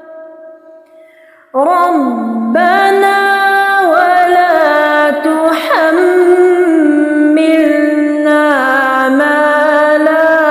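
A woman's voice in melodic Quran recitation (tartil), holding long drawn-out notes with slow glides between them. It comes in about a second and a half in, after the previous note fades away.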